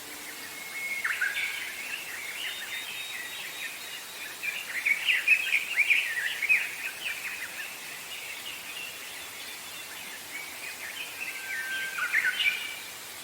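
Wild songbirds singing: quick chirping phrases in three bursts, the busiest in the middle, over a steady background hiss.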